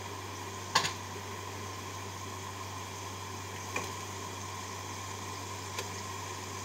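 Marinated chicken pieces sizzling steadily in a hot stainless sauté pan of softened tomato and onion, over a steady low hum. A sharp clack about a second in, and two light ticks later.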